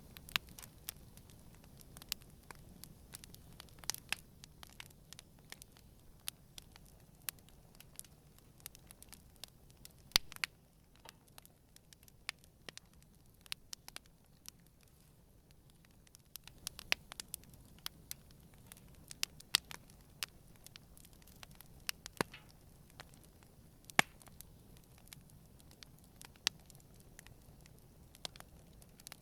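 Wood campfire burning gently: irregular sharp crackles and pops over a faint low hiss, thinning out for a few seconds about halfway through.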